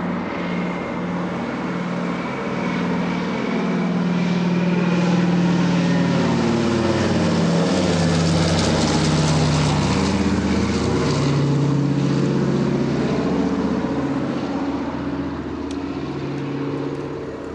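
Several propeller-driven military transport aircraft flying over in formation. Their engine drone swells to its loudest about halfway through, and the pitch of the overlapping engine tones drops as the aircraft pass and move away.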